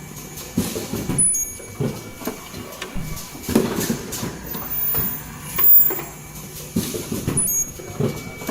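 Automatic N95 cup mask production machine running: an uneven mechanical clatter of knocks and strokes, with short high hisses about a second in and again near the end.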